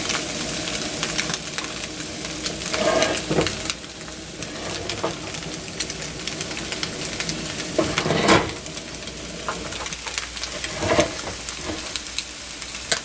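French toast, egg-soaked baguette slices, sizzling in a frying pan, with sausages frying alongside. A few louder scrapes and knocks come about three seconds in, past the middle and near the end, as the pan is shifted about on the burner grate to keep the browning even.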